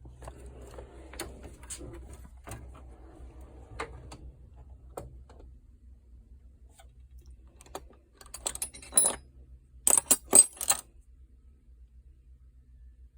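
Metal hand tools clinking and rattling as they are handled in a toolbox, with scattered light clicks and knocks, then a burst of bright metallic clinks about nine to eleven seconds in.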